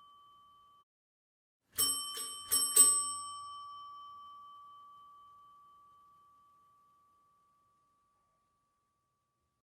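A doorbell sound effect: four quick bright metallic rings about two seconds in, then the bell tone rings on and fades away over several seconds. Just before, the fading tail of an earlier ring is cut off within the first second.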